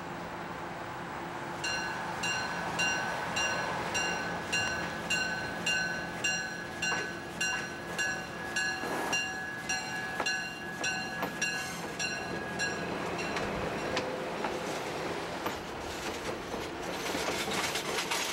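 A bell rings about twice a second over the steady running of an approaching Budd Rail Diesel Car, and the ringing stops about two-thirds of the way through. Near the end the railcar passes close by, and the noise of its wheels and underfloor diesel engines grows louder.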